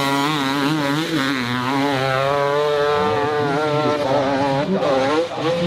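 Dirt bike engine revving hard, its pitch rising and falling quickly again and again as the throttle works.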